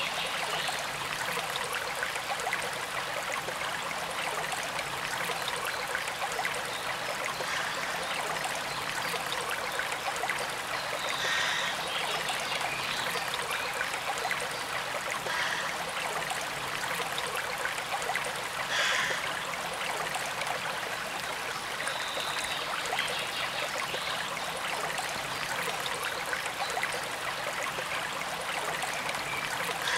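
Forest stream running steadily, a continuous even rush of flowing water.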